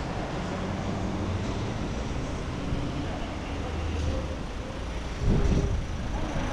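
Street noise in stormy wind: a steady rush of wind and traffic with the low hum of passing vehicle engines, and a louder low rush about five seconds in.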